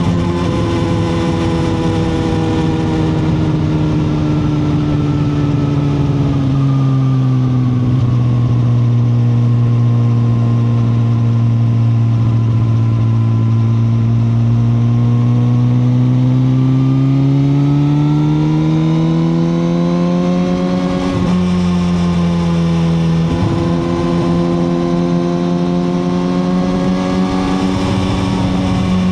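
2021 Suzuki GSX-R1000R's inline-four engine heard on board while riding. The engine note falls over the first several seconds, holds low, then climbs again from about halfway. It breaks sharply twice around three quarters of the way through and then runs steadily.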